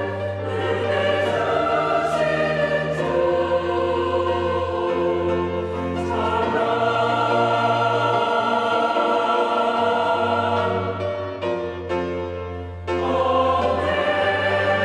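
Church choir singing a hymn anthem in sustained chords over instrumental accompaniment with steady bass notes. The sound thins briefly near the end, then a full chord comes back in.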